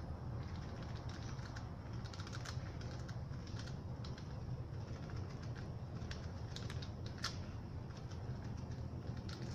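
Scattered light clicks and crackles of the painting surface being worked by hand, over a steady low hum.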